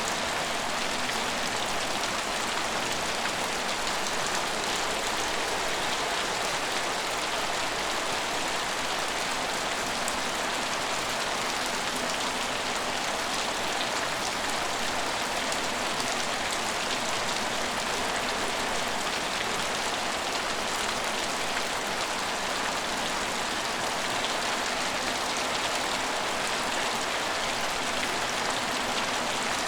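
Steady rain falling on a station's surfaces, an even hiss of drops with no let-up or single events standing out.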